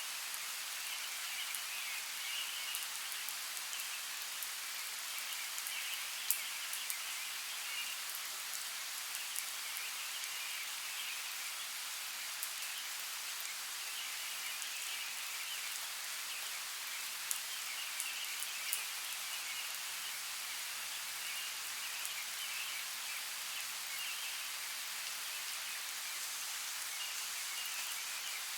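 Steady hiss of falling or running water in a forest, with scattered sharp drip-like ticks and a faint chirring that comes and goes higher up.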